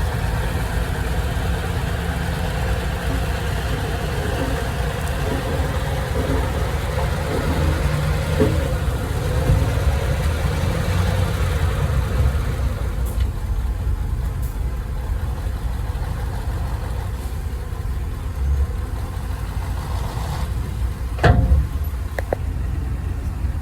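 Heavy earthmoving-vehicle engine running steadily with a low rumble. A higher rushing noise above it fades about halfway through, and there is a single sharp knock near the end.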